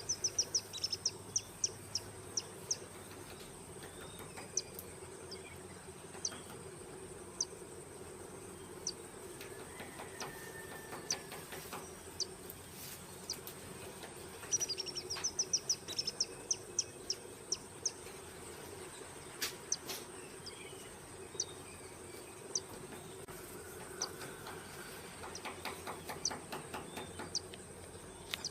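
Woodpecker calling in two quick runs of short high notes, with scattered sharp knocks and a fast run of knocks near the end. A steady high insect-like hiss lies underneath.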